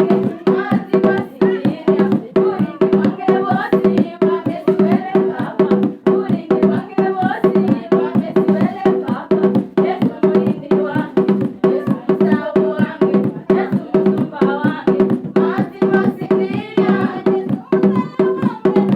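Gospel song: voices singing over fast, dense drum and hand-percussion strikes, with a steady low tone held beneath.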